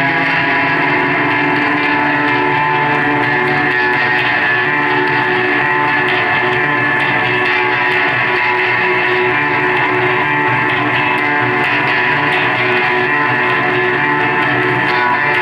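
Live electric guitar music, loud and steady, with sustained chords held throughout and no singing.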